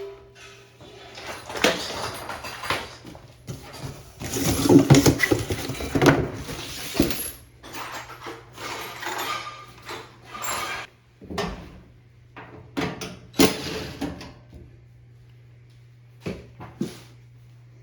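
Scattered knocks, clicks and rustling of hands working on a washing machine's rubber door seal and the metal around it, busiest from about four to seven seconds in, over a faint steady hum.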